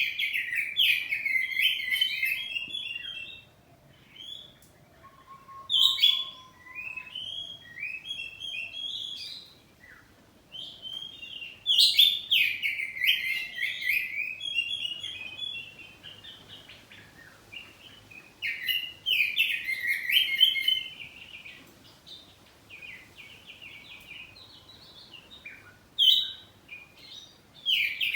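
Oriental magpie-robin (kacer poci) singing loudly in bursts of rapid, varied high whistles and chattering notes. The phrases come about five times, each lasting a few seconds, with short pauses and softer notes between them.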